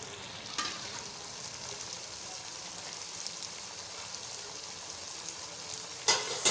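Karela chicken curry sizzling steadily in its pot, a soft even hiss. Near the end a spoon starts stirring through it, louder and scraping.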